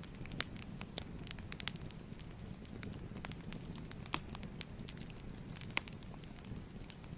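Fireplace fire crackling: irregular sharp pops and snaps over a steady low rumble of the flames, with a few louder pops, around four seconds in and near six seconds.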